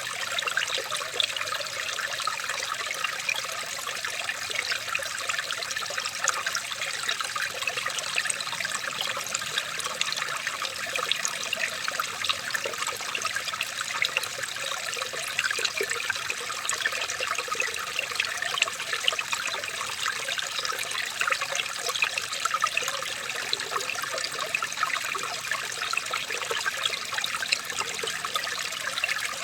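Running water trickling and babbling steadily, with many small splashes.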